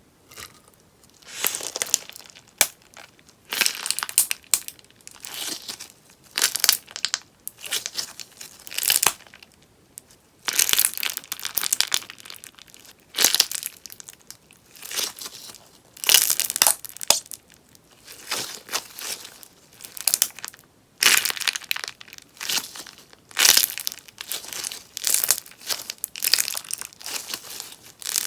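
Sponge slime being worked in repeated squeezes, each one a short burst of dense crackling and popping, coming about once every second or two.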